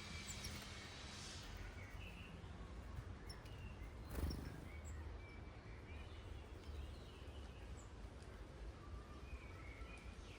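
Faint, scattered short bird chirps over a steady low background rumble, with a single soft knock about four seconds in.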